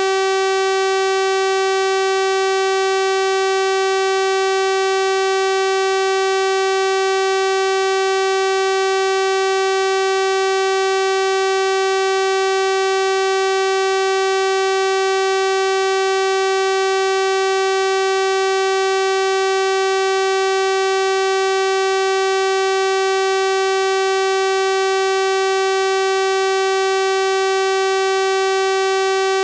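Synthesized 384 Hz sawtooth-wave tone, held steady and unchanging: a buzzy electronic drone rich in overtones.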